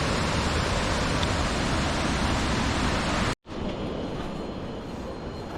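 Steady rush of falling water from a waterfall, broken off by a sudden cut about three and a half seconds in, after which a quieter, duller steady noise continues.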